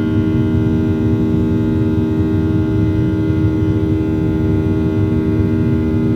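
Airliner cabin drone from the engines and air systems: a steady low rumble with several constant humming tones, unchanging throughout.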